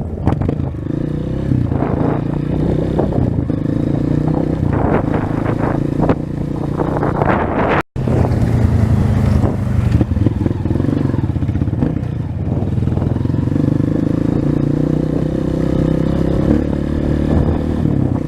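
A 230 cc trail motorcycle's engine running at a steady pace while riding a dirt road, with rattles and clatter from the bike over rough ground. The sound cuts out for an instant about eight seconds in.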